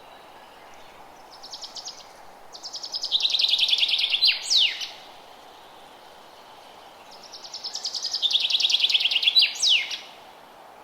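A songbird singing two song phrases about five seconds apart. Each is a fast trill of high, rapidly repeated notes that ends in a couple of sharp downward-sweeping notes, over a steady faint background hiss.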